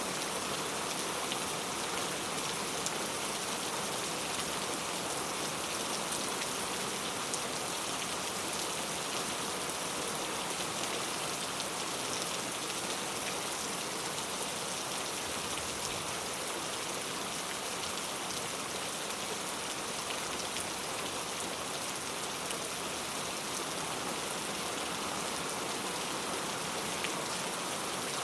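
Heavy rain falling steadily on hard street surfaces, a dense even patter of drops.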